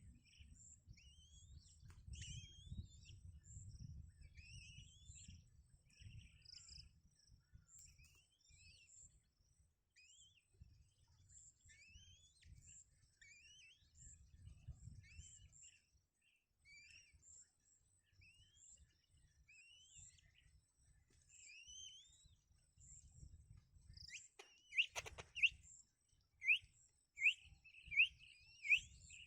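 Small birds chirping: short rising chirps repeated about once a second, turning louder and quicker, about two a second, in the last few seconds. A low rumble of wind or handling noise runs underneath, with one sharp click near the end.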